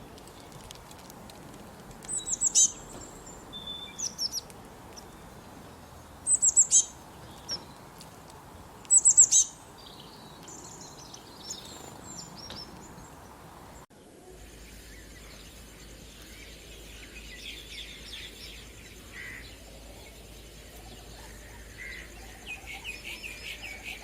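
Birds calling: three loud clusters of short, sharp high-pitched notes, then, after an abrupt change in the background, softer scattered chirps and a quick run of notes near the end.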